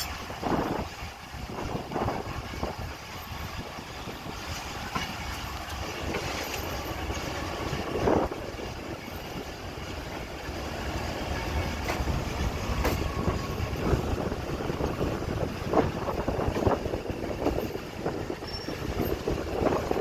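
Pakistan Railways passenger train running through a rail yard, heard from an open coach doorway: a steady low rumble of wheels on the rails with irregular clacks as the wheels cross rail joints and points.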